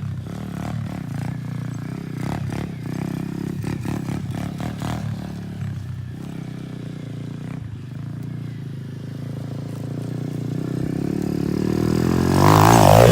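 Dirt bike engine running through a jump run, fairly distant at first with scattered clatter. Near the end it grows much louder as the bike comes close, its pitch sweeping down and back up.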